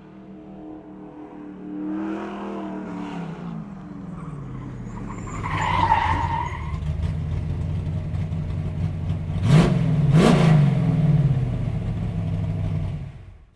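Car engine running, its pitch shifting about, with a short high screech around six seconds in and quick revs that drop and climb in pitch around ten seconds in; it cuts off abruptly at the end.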